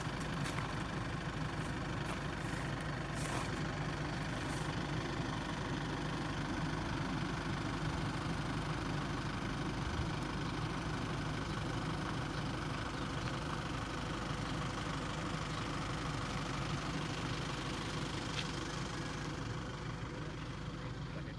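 A vehicle engine running at a steady, even note, with a few faint clicks in the first few seconds.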